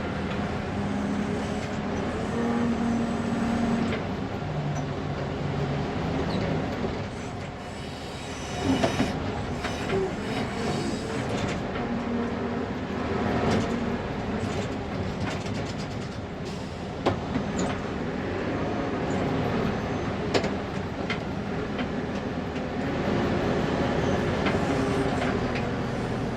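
1999 Fermec TLK760 backhoe's diesel engine running under load, heard from inside the cab, its engine speed rising and falling as the loader works. The cab rattles, with several sharp clanks and knocks from the loader bucket and linkage.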